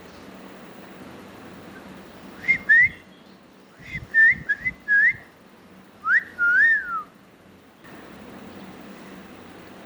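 Clear whistled notes in three short phrases, each note sliding up or down in pitch, the last phrase ending in a long falling glide.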